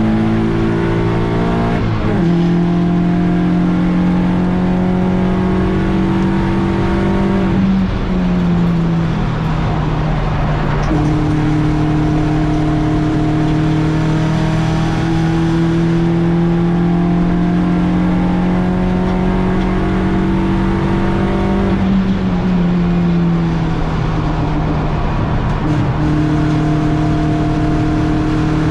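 BMW 116i race car engine heard onboard, running hard at steady high revs, with its pitch dropping about 2, 8 and 22 seconds in as the driver shifts or lifts.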